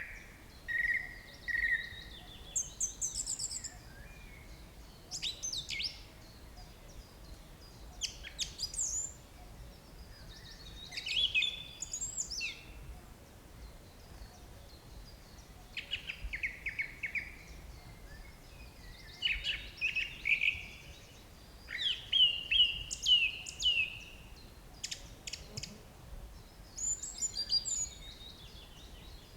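Forest birds singing and calling: bursts of quick, high chirps and short phrases every couple of seconds over a faint steady background, loudest just past two-thirds of the way through.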